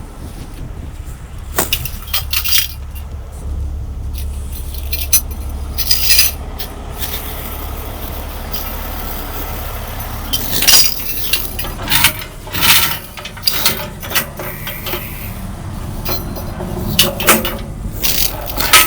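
A heavy truck engine runs steadily with a low rumble under repeated sharp metallic clanks and clinks, bunched in two flurries about halfway through and near the end.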